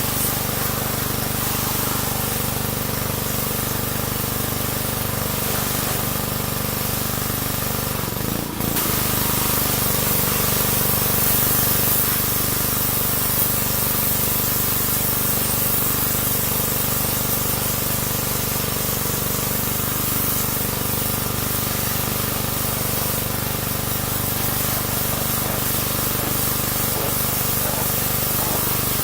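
Pressure washer running and spraying steadily: a continuous hiss of water over a steady motor-driven pump hum, with one brief dip about eight and a half seconds in.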